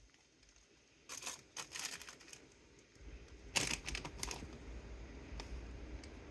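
Crinkling and crackling of a plastic chip bag as a kitten paws and bites at it, in two bursts, about a second in and again past the midpoint.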